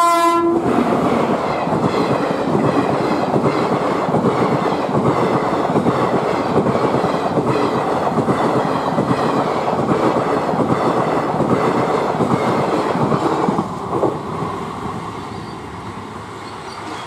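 Express passenger train passing close by at speed: its horn cuts off about half a second in, then the coaches' wheels clatter steadily on the rails. The noise drops away suddenly about 14 seconds in as the last coach passes, then fades into the distance.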